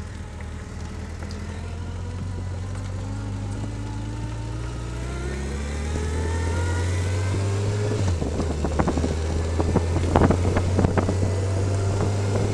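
Motorcycle engine running under way, its pitch rising slowly as it pulls up through the revs. In the last few seconds, rapid irregular crackles sound over the engine.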